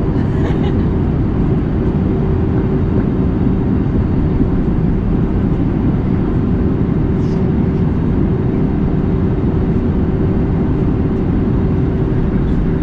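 Steady, loud cabin noise of an Airbus A320neo in flight, the engine and airflow making a low, even rumble with a faint steady hum running through it.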